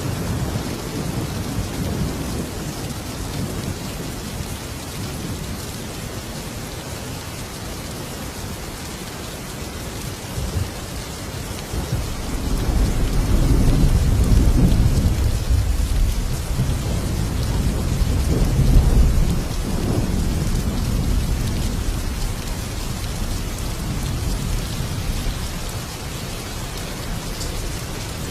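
Thunderstorm: steady heavy rain, with a long rolling rumble of thunder that swells about halfway through and fades a few seconds later.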